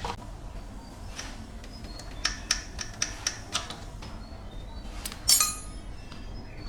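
Metal parts clinking: a quick run of about six light ringing taps, then one louder ringing metal clank about five seconds in.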